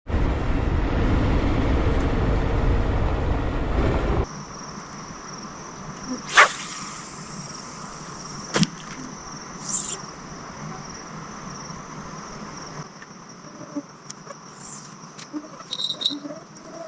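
A loud rush of noise for about four seconds that cuts off suddenly. Then a steady high insect trill, like crickets at night, with a few sharp knocks and clicks.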